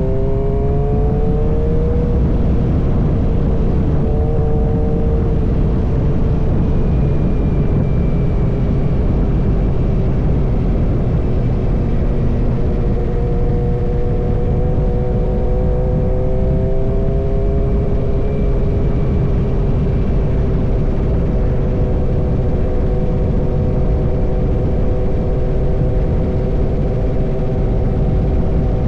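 Suzuki GSX-R motorcycle with an M4 full-system exhaust running under way, its engine note climbing over the first couple of seconds and then holding fairly steady, over a loud, constant low rumble.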